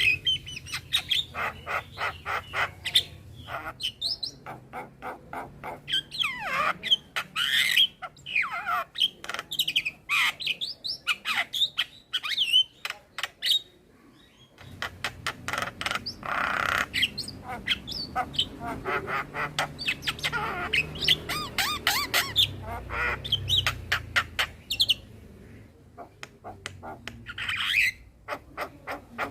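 Male Javan myna singing a busy, varied song of harsh squawks, rapid clicking rattles and gliding whistles, with a short pause about halfway.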